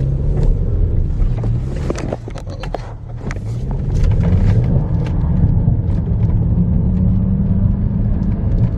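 Kia Stinger 2.0-litre turbo four-cylinder engine pulling under hard acceleration: its pitch dips about two seconds in, then climbs from about three seconds and holds high, with a few sharp clicks and knocks in between. The engine feels weak as hell to the driver, short of the 3.0's power.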